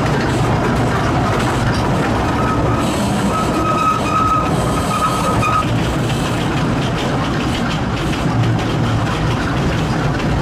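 Kurobe Gorge Railway narrow-gauge trolley train running at speed, heard from inside an open-sided car: a steady loud rumble and clatter of wheels on rail. A high wheel squeal sounds for about three seconds, starting a couple of seconds in.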